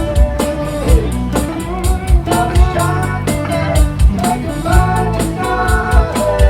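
Live rock band playing an instrumental passage: a guitar lead line with bent notes over bass and a drum kit keeping a steady beat of kick and cymbal hits.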